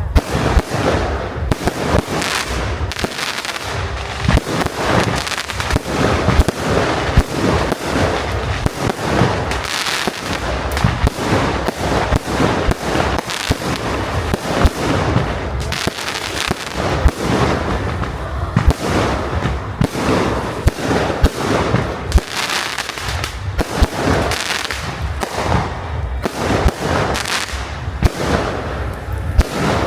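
Fireworks display: a steady barrage of bangs and crackles, many going off in quick succession and overlapping.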